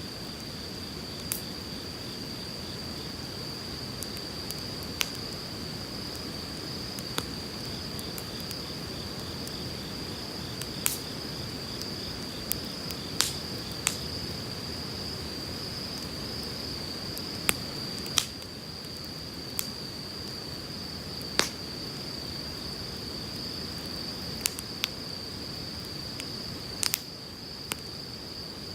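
Firewood burning in a campfire, giving sharp pops and crackles at irregular intervals, over the steady rush of a flowing river. A steady thin high-pitched tone sits above it.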